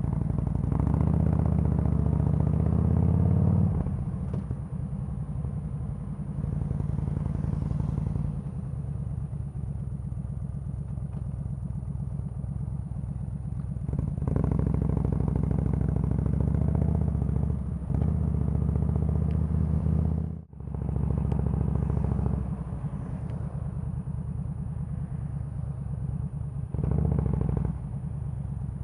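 Yamaha V-Star 1300 V-twin engine running while riding, pulling harder in two stretches, near the start and from about halfway, and easing off between them.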